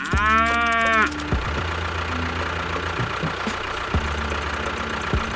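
A brief pitched tone with a strong, horn-like ring lasts about a second, rising and then falling in pitch. Then an engine runs steadily with a fine, even knocking.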